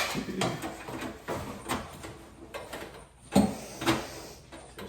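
Irregular knocks, clatters and rustles from handling the parts and packaging of a new toaster oven, with a couple of sharper clunks at the start and about three and a half seconds in.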